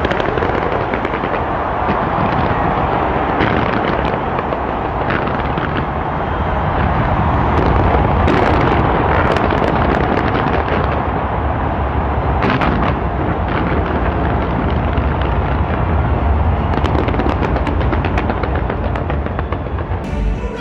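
Large fireworks display: a dense, continuous barrage of rapid bangs and crackles over deep booms, with no break.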